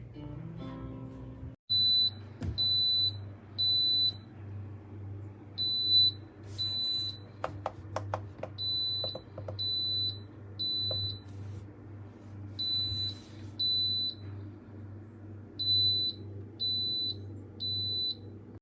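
Smoke alarm sounding high electronic beeps in repeated groups of three, its standard evacuation pattern.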